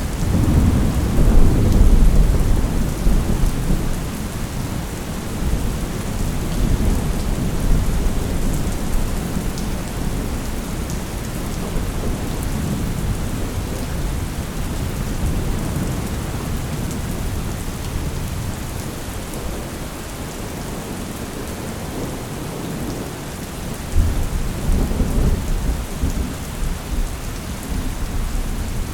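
Thunderstorm: steady rain with rolling thunder, a heavy rumble at the start that fades over a few seconds and another that breaks in suddenly near the end.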